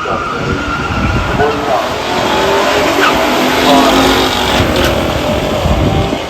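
Stock V8 muscle cars making a drag-strip pass at full throttle, the engines and exhausts growing louder after about two seconds, with a little tyre noise.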